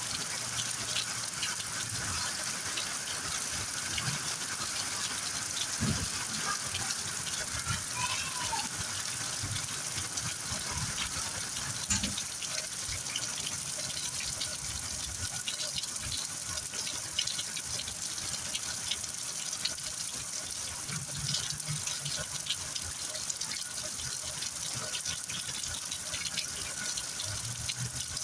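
Heavy rain falling steadily, with many sharp ticks of close drops hitting surfaces through a continuous rush of water.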